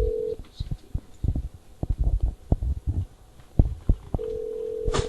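A steady telephone-line tone sounds briefly at the start and again for about a second near the end. Between them comes a run of short, irregular low thuds and knocks over the phone line.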